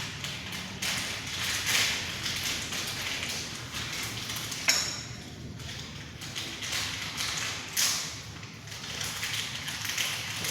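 Irregular taps and knocks of hand work on fittings, with one sharp metallic click that rings briefly a little before halfway.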